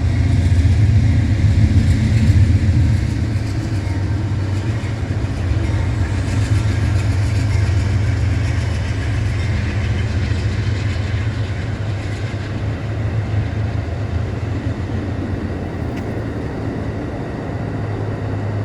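Amtrak passenger train passing on the far track: a steady low rumble of locomotive and rolling cars, loudest in the first few seconds and slowly easing off, with no horn.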